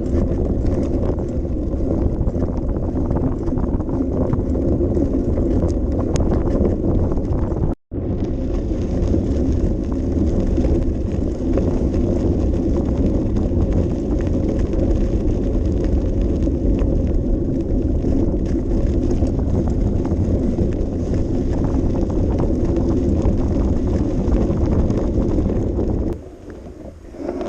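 Bicycle riding over a rough path, heard from a mount on the bike: a steady rumble and rattle of tyres and frame mixed with wind buffeting the microphone. It cuts out for an instant about eight seconds in and dies down about a second before the end.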